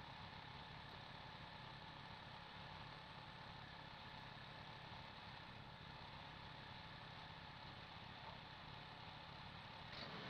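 Faint, steady engine hum, close to near silence, of a small engine idling with no change in speed.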